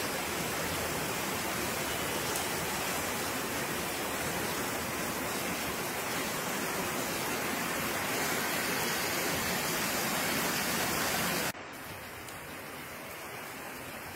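Rain falling steadily on wet paving and tiled roofs, an even hiss. About 11.5 s in it cuts abruptly to a quieter stretch of the same rain.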